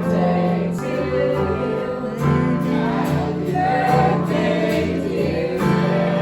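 A group of people singing together in harmony, holding long notes in chords that change about once a second.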